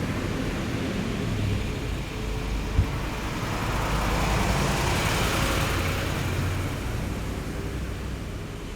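Heavy military vehicles driving past, a low engine rumble with road noise that swells about halfway through and then fades away. A single short knock comes about three seconds in.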